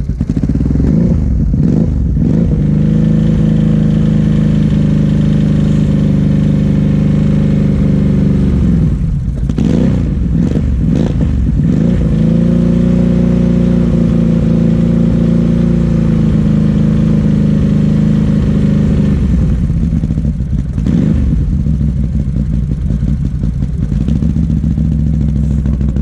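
Can-Am ATV engine running just after a cold start, not running happily. Its speed changes a few times, with steady running in between.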